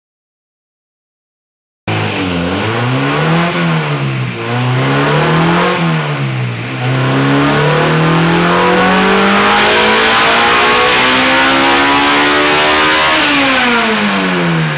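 Silence for about two seconds, then a naturally aspirated Honda four-cylinder race engine on a chassis dyno, revved up and down three times before a full-throttle pull that rises steadily in pitch for about six seconds to high rpm. Near the end the revs fall away as the throttle is closed.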